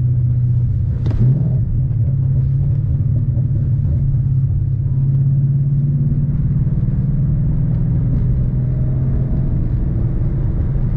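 2011 Mustang GT's 5.0 V8 running steadily while driving in traffic, a low, even drone, with a brief click about a second in.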